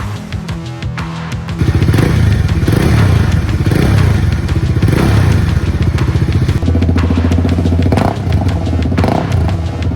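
Music at first, then about a second and a half in the Bajaj Dominar 400's single-cylinder engine comes in loud through an SC Project aftermarket exhaust, running with a pulsing beat and several quick throttle blips that rise and fall near the end.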